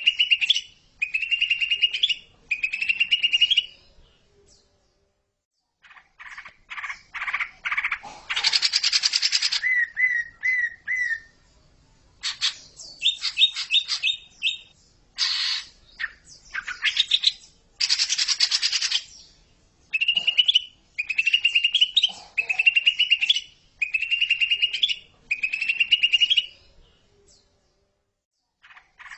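Green leafbird (cucak ijo) singing: short, fast-trilled phrases about a second long, repeated with brief gaps, with denser, buzzier bursts in the middle. The song breaks off for a couple of seconds about four seconds in.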